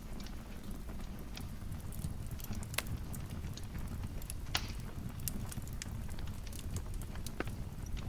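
Wood fire crackling in a fireplace: irregular snaps and pops over a low, steady rumble of the flames, with the sharpest pops about three and four and a half seconds in.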